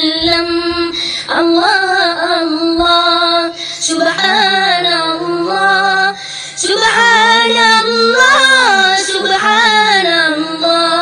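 A young boy's solo voice singing a naat in several long phrases of held, bending notes.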